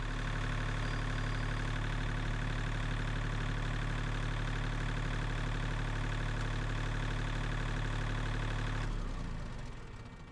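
An engine running steadily at idle, then shut off about nine seconds in.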